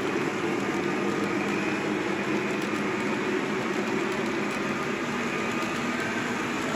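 Lionel Legacy ES44AC model locomotive's onboard sound system playing a steady GE diesel engine sound.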